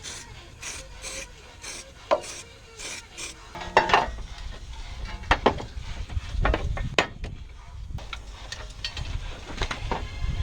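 Hands-on metalwork on a car's front chassis rail. A quick run of short rubbing or scraping strokes gives way, about four seconds in, to scattered sharp knocks and clunks of metal being worked into place.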